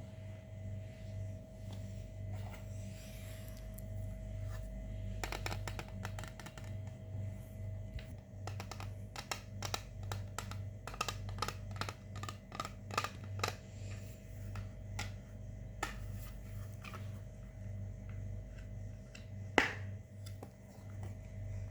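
Slime being kneaded and stretched by hand, giving a quick run of small sticky clicks and pops, with one sharper louder click near the end. A steady low hum runs underneath.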